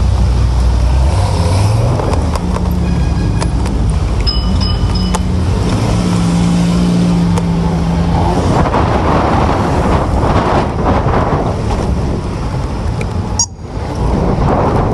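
City street traffic: motor vehicles running and passing, with a brief cut about three-quarters of the way through.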